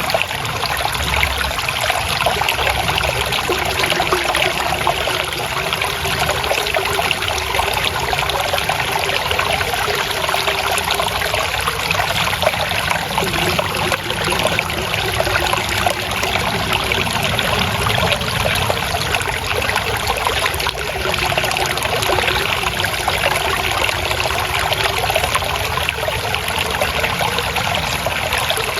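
Shallow water trickling and splashing steadily over stones, a continuous babbling of running water.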